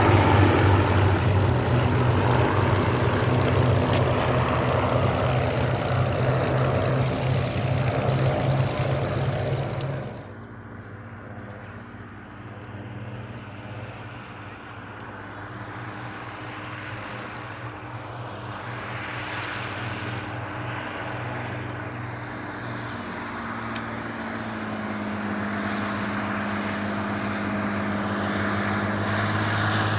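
V12 piston engine of a Second World War fighter in flight, a steady propeller drone with a strong low engine note. Loud for about the first ten seconds, then abruptly much quieter, before slowly growing louder again as another pass approaches.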